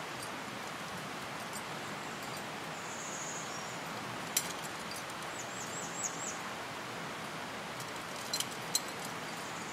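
Steady outdoor hiss with a small bird calling high overhead: one held note, then a quick run of four or five falling notes about halfway through. A few sharp clicks stand out, one about four seconds in and a close pair and a single near the end.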